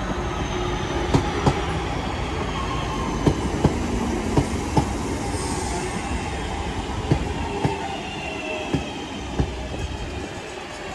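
Class 323 electric multiple unit pulling into a station and slowing. Its wheels click sharply over rail joints at uneven intervals, over a steady rumble and a gently falling whine, and it quietens near the end.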